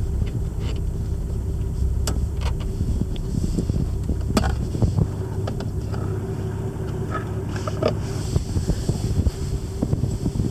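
A 1961 Jaguar Mk 2's straight-six engine running steadily after a cold start, with a few sharp clicks over the running.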